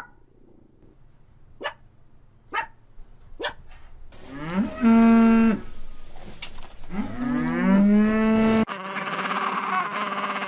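A cow moos twice in long calls, each rising at the start and then held steady, after a few faint clicks. A different noisy sound with a steady pitched hum cuts in near the end.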